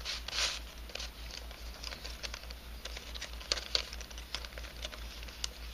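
Irregular light clicks and rustling of a 3D-printed nylon twisty puzzle, an unbandaged helicopter cube, being twisted and handled.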